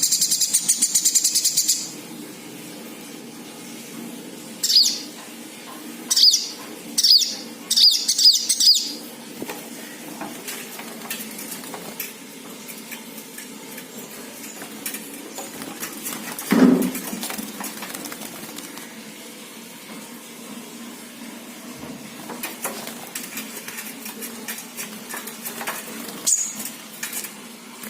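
A small bird's wings flapping in a rapid flutter at the start, then in several short bursts about five to nine seconds in and once more near the end, with faint scattered taps and rustles between.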